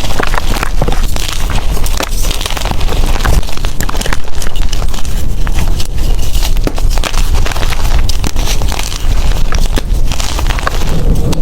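Blocks of gym chalk being crumbled and crushed by hand: dense, continuous crackling and crunching with a heavy low rumble underneath.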